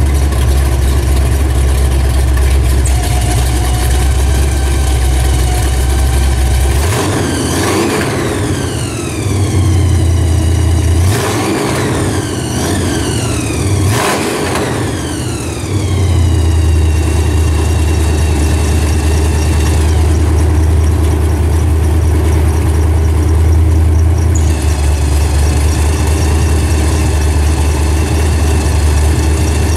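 Blown V8 engine with a polished Roots-type supercharger running at a loud, lumpy idle. It is revved in several quick blips about a third of the way in, each followed by a high whine that falls in pitch as the revs drop back.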